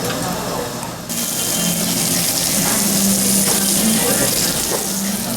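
Meat sizzling on a hot grill: a loud, steady hiss that starts suddenly about a second in.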